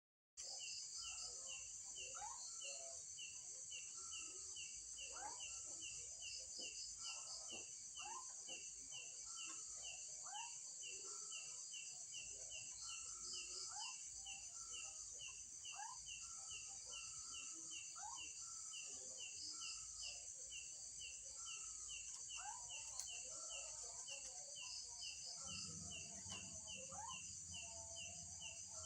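Night chorus of crickets and other insects: a dense high buzz with a steady chirp about three times a second, and many short rising calls scattered through it. A low hum comes in near the end.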